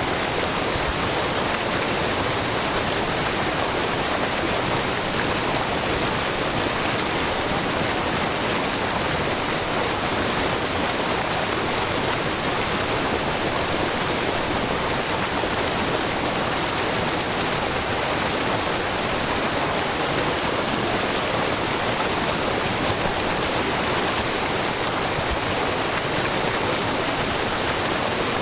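Steady rush and splash of a low, wide waterfall, with spring water falling over a rock face in many thin strands. The sound is unbroken and even, with no single splashes standing out.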